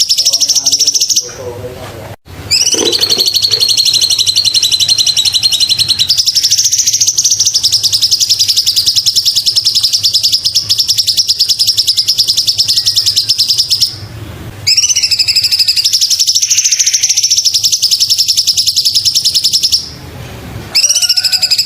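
Cucak cungkok songbird singing a fast, high-pitched trill of rapidly repeated notes, held in long phrases of several seconds broken by three brief pauses.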